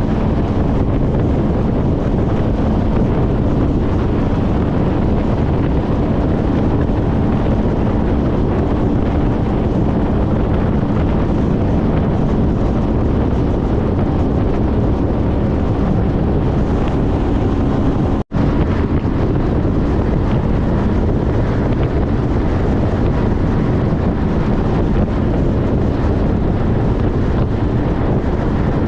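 Steady wind rush on the microphone from a 2014 Honda CTX1300 motorcycle riding at speed, with a constant drone of engine and road underneath. The sound cuts out for an instant about eighteen seconds in.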